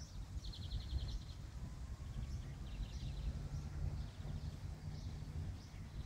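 A small bird singing short, rapid trills of repeated high notes, the clearest about half a second in and fainter ones following every second or so, over a low rumble of wind on the microphone.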